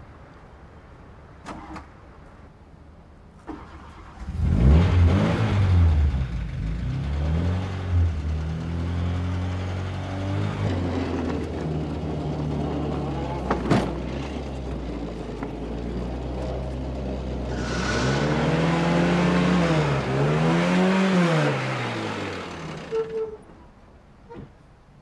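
Car engine starting about four seconds in and revved again and again, its pitch rising and falling, then running on until two last revs near the end before it stops. It is being given too much gas right after catching.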